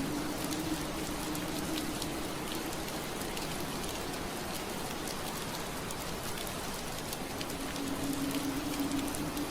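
Steady rain falling on window glass, a dense even hiss with scattered small drop ticks. A low steady hum sits under it, fading out a couple of seconds in and coming back near the end.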